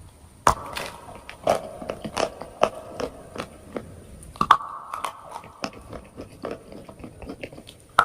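A person biting into and chewing hard, dry chalk: several sharp snaps, the loudest about half a second, a second and a half, two seconds and four and a half seconds in, with brittle crunching in between.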